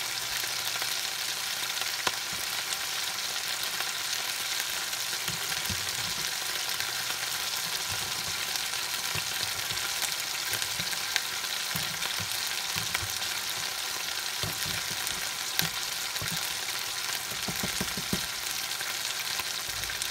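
Ground-pork burger patties frying in butter in a skillet: a steady sizzling hiss with a few sharp pops.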